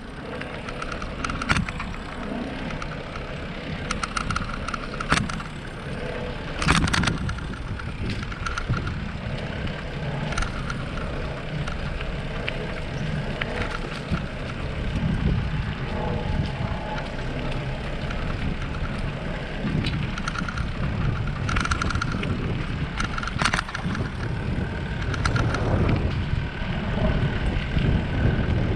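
Bicycle ride with an action camera: steady wind rumble on the microphone, with sharp rattles and knocks from the bike several times as it goes over bumps.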